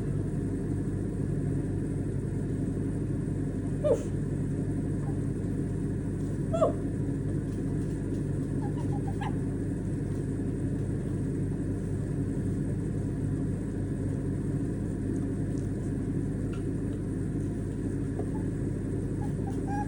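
Steady low rumble, with a few short chirps from a white-bellied caique about four and seven seconds in.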